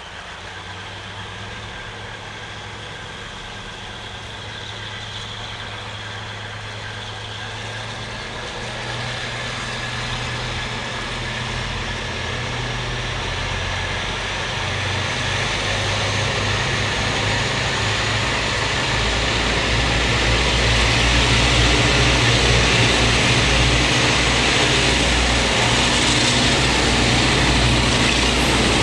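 Diesel locomotive approaching under power, its engine growing steadily louder, with a faint whine rising in pitch.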